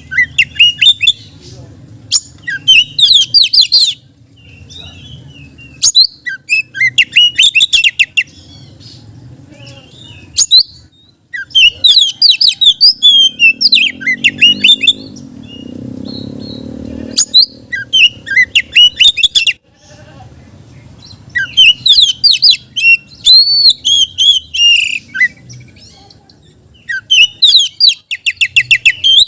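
Oriental magpie-robin (kacer) singing loudly in bursts of rapid, sharply gliding whistles and harsh notes. The phrases last a few seconds each, with short pauses between them, over a faint low hum.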